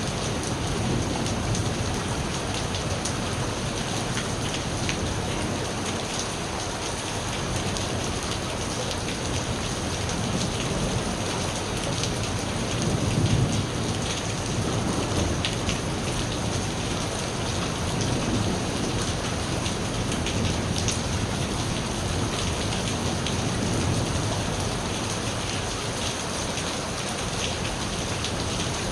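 Steady rain falling, with the patter of drops, over a low rumble of thunder that swells briefly about halfway through.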